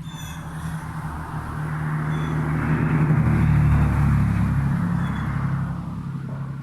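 A motor vehicle passing by: engine hum and road noise swell to a peak about halfway through, then fade away. A few faint, high bird chirps sound over it.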